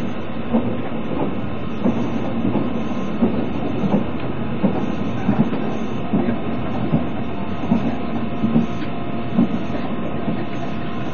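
Passenger car of the locomotive-hauled Express Kaimon running on the rails, heard from inside the carriage: a steady rumble with wheels clicking over rail joints, the clicks often coming in quick pairs every second or so.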